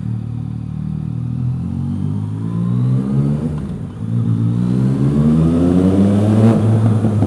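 2015 Yamaha MT-09's three-cylinder engine through an Akrapovic exhaust, accelerating hard. The pitch climbs, drops at a gear change about four seconds in, then climbs again.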